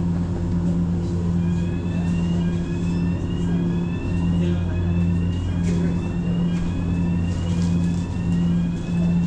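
A large engine running steadily: a low, even hum that swells and dips about once a second. Faint rising chirps repeat about once a second above it.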